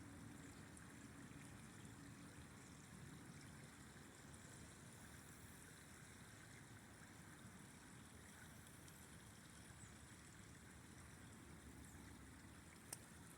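River flowing: a faint, steady rush of water, with a single sharp click near the end.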